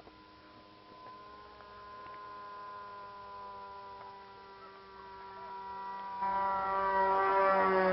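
Two-stroke O.S. 55AX glow engine of a radio-controlled aerobatic plane running at high revs in flight, a steady pitched buzz that grows louder about six seconds in as the plane comes closer.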